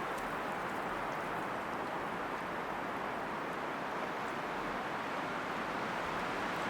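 A steady rushing outdoor wash of noise, with no rise or fall, and a few faint small ticks above it.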